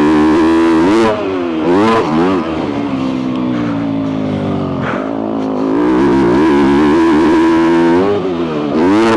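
2022 Yamaha YZ250F's single-cylinder four-stroke engine through a full FMF exhaust, ridden hard: the revs drop and climb again quickly about a second in and near two seconds, fall away slowly, then hold high and steady before another short drop and climb near the end.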